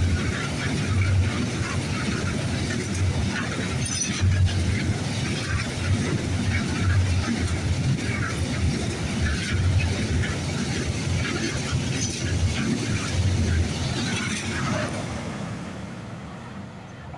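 Freight train wagons rolling past on the rails: a steady clatter and rumble with a low beat about every one and a half seconds as wheelsets pass. It fades away in the last few seconds as the train moves off.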